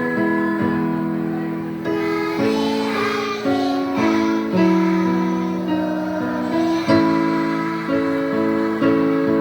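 Kindergarten children's choir singing a song with instrumental accompaniment, held notes moving in a melody.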